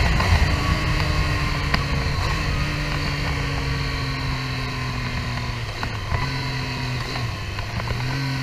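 Triumph Street Triple R's three-cylinder engine running at low revs, its steady note sinking slowly as the bike rolls along. Wind rushes over the camera microphone, easing off as the bike slows.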